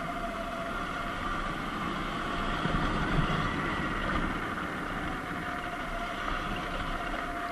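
Surron Light Bee X electric dirt bike under way, its motor and drive giving a steady whine over a rumble of tyres on dirt and wind, the rumble loudest about three seconds in.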